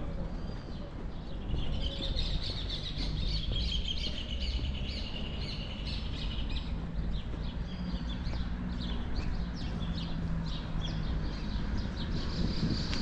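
Small birds chirping and twittering, a rapid run of short high calls, over a steady low outdoor rumble.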